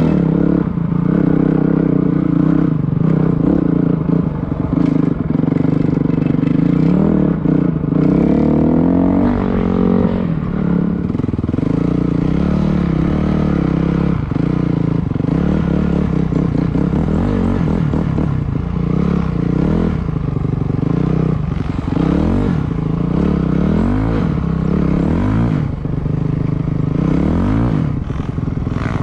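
Dirt bike engine running hard, its pitch rising and falling again and again as the throttle is worked, with scattered knocks and clatter.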